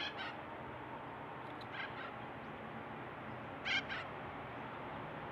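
A bird calling in short paired calls three times, the last pair the loudest, over steady faint background noise.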